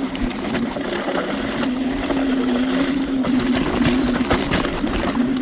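TRBK-M2 electric hyperscooter's motors whining steadily under load as it climbs a dirt trail, with rattling and crunching from the tyres, chassis and ground.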